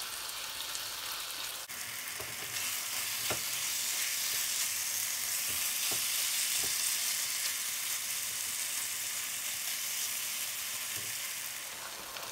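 Chicken, onion and tomato sizzling in ghee in a non-stick wok on high heat, the sizzle growing louder about two seconds in. A spatula stirring the pieces scrapes and taps the pan a few times.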